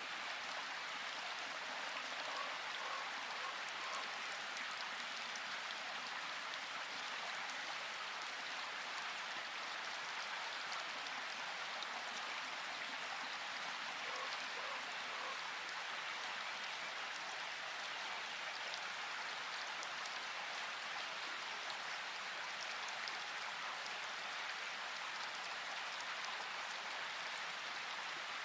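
Steady rain falling in a forest: an even hiss of many drops that stays at the same strength throughout.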